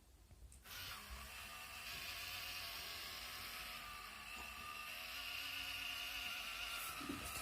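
Small electric motor of a toy tractor whining steadily, starting up just under a second in.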